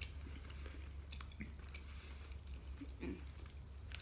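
Faint chewing and small mouth clicks of people eating, over a low steady hum.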